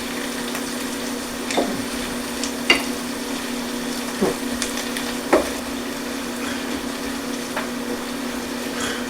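Chopped onions, celery, carrot and herbs sizzling in a sauté pan as they are stirred, with about four knocks of the utensil against the pan in the first half, over a steady low hum.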